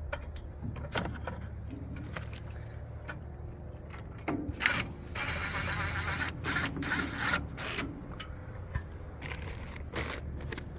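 Small metal parts and hand tools being handled while bolts are fitted into a small engine: scattered clicks and knocks, with a stretch of steady scraping in the middle.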